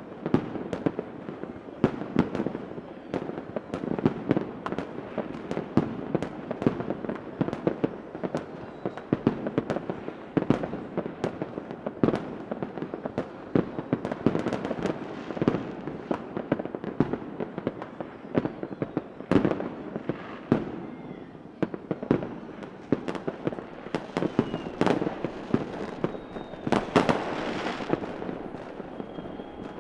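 Fireworks sound effect: a continuous barrage of sharp bangs and pops over steady crackling, with a few faint whistles rising among them.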